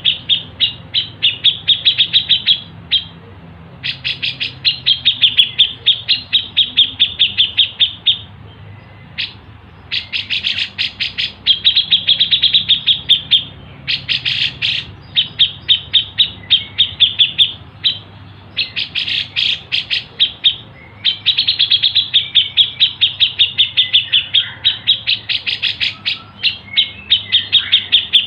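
Songbird calling in rapid trains of sharp, repeated chip notes, several a second, in bursts of two to four seconds broken by short pauses.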